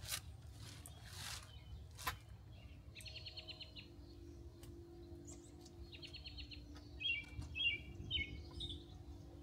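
Small birds chirping: two short rapid trills, then a run of louder chirps about seven seconds in. A faint steady hum comes in halfway through, and there is a single sharp click about two seconds in.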